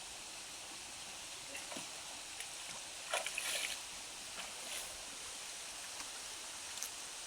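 Faint steady rush of a shallow stream, with a few light clicks and splashes about three seconds in.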